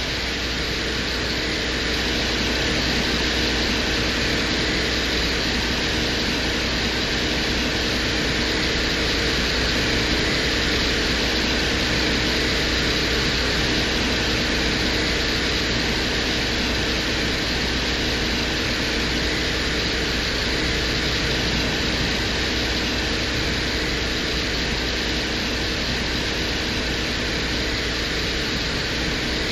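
Venera 14 lander's microphone recording from the surface of Venus: a steady static-like hiss, described as eerie white noise, over a low hum, with the gentle blow of the Venusian wind.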